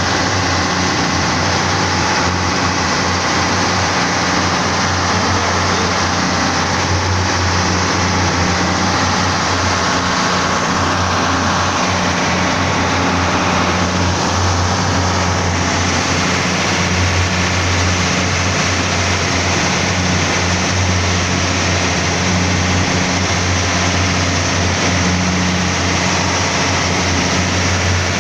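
Boat engine running steadily: a constant, loud low hum with a noisy hiss over it.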